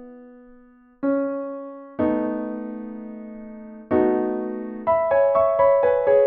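Solo piano playing a slow prelude: a held note fades, then three full chords are struck and left to ring, one after another. Near the end a quicker figure of repeated notes begins, about four notes a second.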